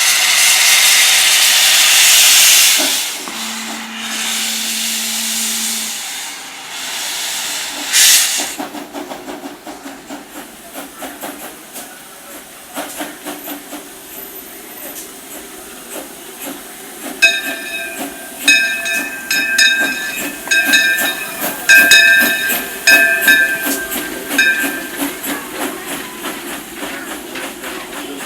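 Steam locomotive #76, a 0-4-0T tank engine, venting steam with a loud hiss. It then chuffs in an even rhythm as it gets under way, and about halfway through its three-chime steam whistle sounds a series of short blasts.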